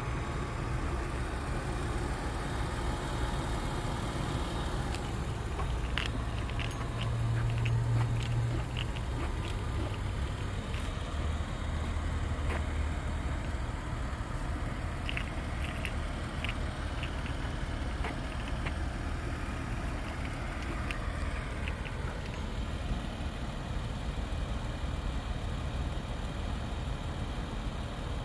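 Nissan Maxima's 3.5-litre V6 idling steadily, a low hum, with two brief runs of light ticks.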